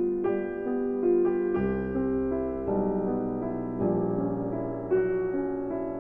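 Background piano music: a slow, gentle melody of sustained notes and chords.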